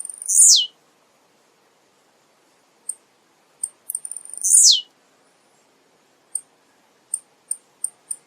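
Male blue-black grassquit (tiziu) singing: short high chips, then its song, a quick high note sliding steeply downward. The song comes twice, right at the start and about four seconds in, with scattered chips between.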